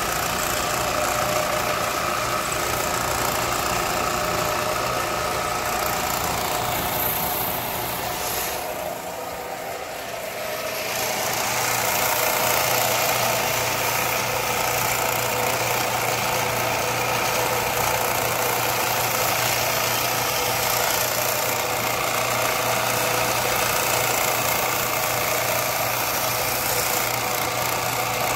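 Electric grinding machine running steadily with a knife blade being worked against it, a constant motor hum under a broad grinding hiss. The grinding sound drops away briefly about nine seconds in, then returns.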